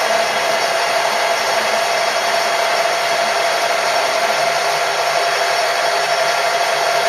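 Milling machine running steadily, a constant motor and spindle whir with a steady tone over an even hiss.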